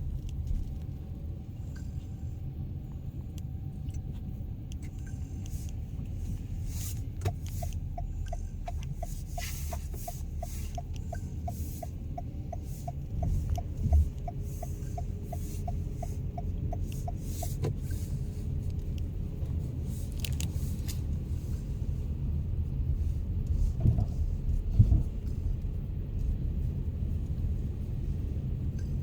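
Low, steady engine rumble. A high steady tone turns into a run of quick beeps, about three a second, for some ten seconds, with scattered clicks and a couple of brief thumps.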